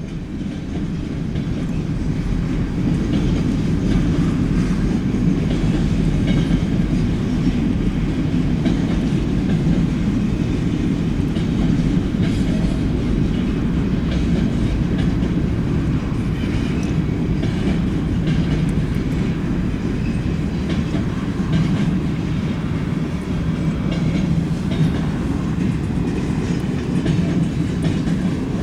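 Canadian National freight train rolling past: a steady, loud low rumble with the clickety-clack of the wheels on the rails.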